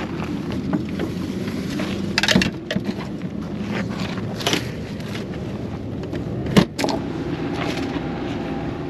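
Steady hum of a running vehicle, with a few sharp clicks and knocks of things being handled. The loudest knock comes about six and a half seconds in.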